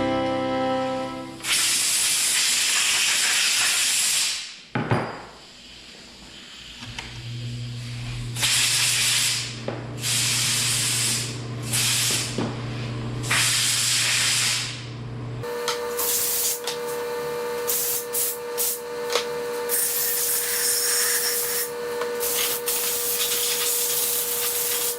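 High-pressure air or water spray hissing in repeated bursts as the trigger is worked, over a low steady machine hum. About halfway through it turns into a continuous spray with a steady motor tone.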